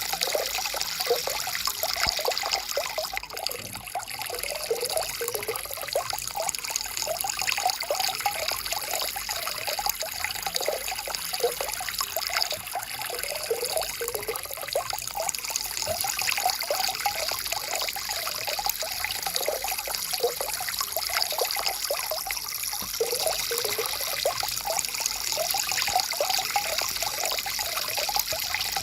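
Stream water flowing and trickling over rocks, a steady babble of small splashes and gurgles.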